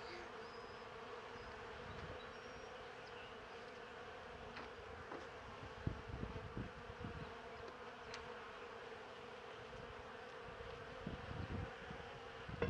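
Italian honeybees buzzing around an open Langstroth hive, a faint steady hum, with a few soft low knocks, around six seconds in and again near the end.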